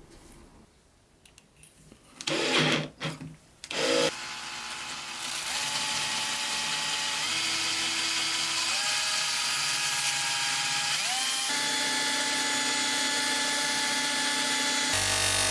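A few loud knocks of handling, then a small electric power tool motor starts and runs steadily, its hum stepping to a new pitch several times as the load or speed changes, while new axles for a toy truck are made.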